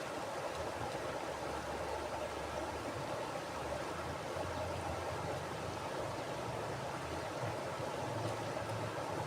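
Mountain river flowing over rocks: a steady rushing of water with a low rumble underneath.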